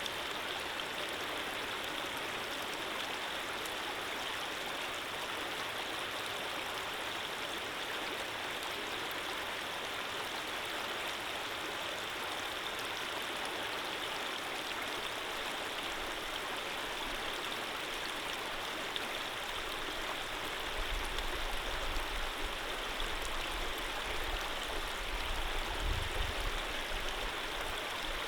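Steady flow of running water from a gentle stream, an even unbroken rush. In the last third a low rumble comes and goes underneath it.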